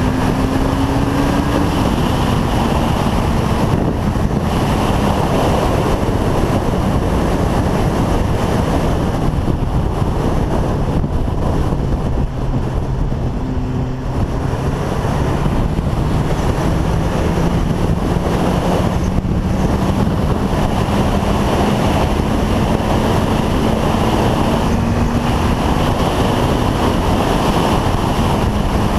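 Motorcycle engine running at road speed under heavy wind noise on the microphone. The engine pitch rises, drops about two seconds in, then sits low and climbs slowly through the second half.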